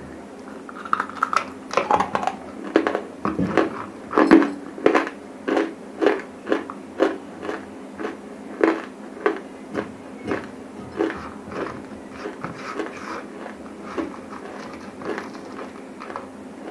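Close-miked chewing of dry grey clay chunks: sharp, crisp crunches about twice a second, loudest in the first half and growing fainter toward the end, over a faint steady hum.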